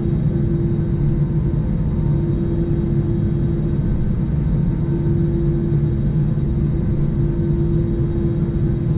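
Airbus A321 jet engines running at low power, heard inside the cabin as a steady low rumble with an even hum.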